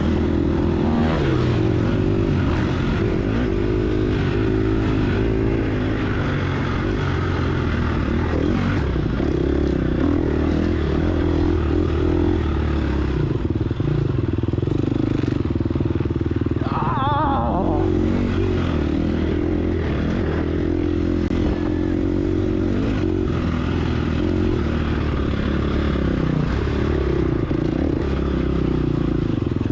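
Dirt bike's single-cylinder four-stroke engine, a 2022 Gas Gas EX250F, running hard under constantly changing throttle, its pitch rising and falling as the rider accelerates and backs off.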